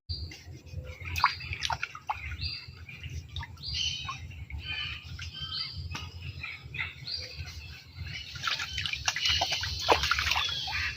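Birds chirping: many short, quick calls overlapping throughout, with a few sharp clicks among them.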